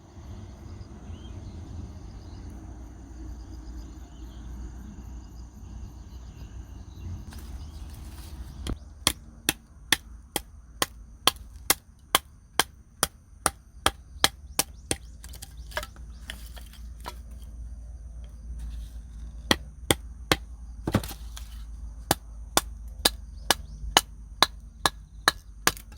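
Wood being chopped for a campfire: two runs of sharp, even strikes, about two a second, with a short pause between them. Wind rumbles on the microphone underneath.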